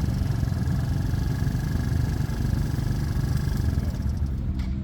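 Motorcycle engines idling, a steady low engine note with a faint thin whine above it for most of the time, and a short knock near the end.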